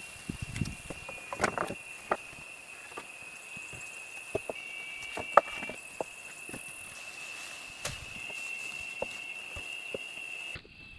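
A steady high insect trill, with scattered sharp clicks and knocks, and a few low thumps in the first couple of seconds. The sound cuts out briefly near the end.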